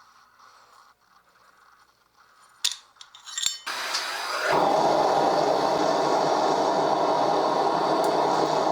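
A few sharp metallic clinks, then about four seconds in a gas burner lights with a rush and settles into a loud, steady burner noise, the heat source being fired up for heat-treating the cleaver blade.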